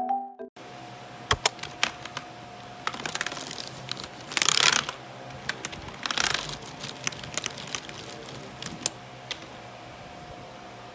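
Irregular clicks of typing on a computer keyboard, with two brief louder rustles about four and a half and six seconds in, over a faint steady hum.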